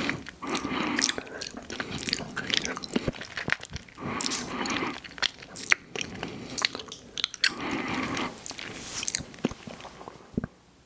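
Close-miked eating: bites and crunchy chewing with sharp mouth clicks, in irregular stretches that die away about a second before the end.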